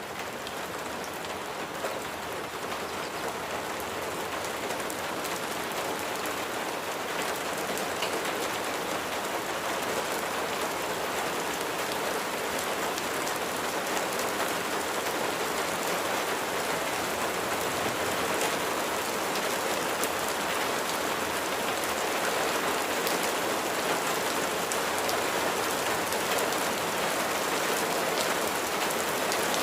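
Steady heavy rain falling, a dense hiss with individual drops ticking through it, growing slightly louder as it goes.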